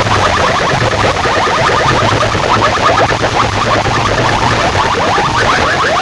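Several DJ sound-box rigs blasting competition tracks at once: a loud, clashing run of rapid rising chirps, many a second, over a steady low drone.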